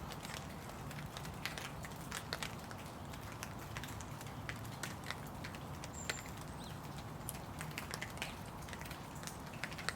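Rain falling, with individual drops ticking and tapping irregularly close by over a steady low background noise.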